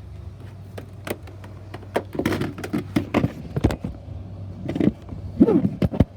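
Plastic clicks, knocks and rattles as the hose and turbo brush attachment of a Bissell Rewind SmartClean upright vacuum are handled and fitted, with the vacuum still switched off, over a steady low hum.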